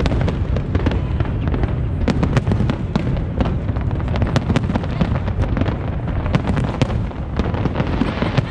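Aerial fireworks display going off without a break: many sharp pops and crackles in quick succession over continuous low booming.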